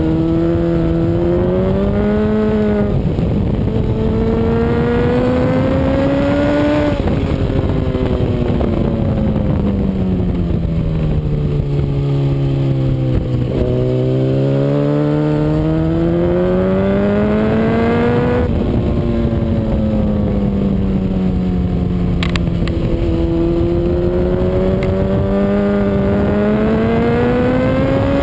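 Honda CBR RR sportbike's inline-four engine lapping a circuit: the pitch climbs under throttle, drops sharply at gear changes or lift-off about 3 and 7 seconds in, falls slowly while braking for a corner until about 13 seconds in, then climbs again. Steady wind rush runs underneath.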